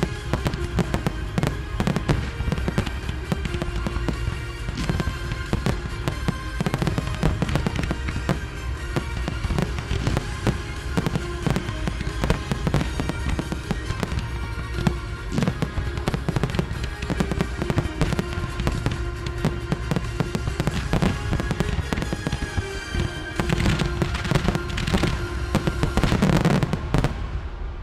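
Fireworks shells bursting in rapid succession over the show's music soundtrack. The bursts become densest and loudest in the last few seconds as a finale volley, then cut off suddenly.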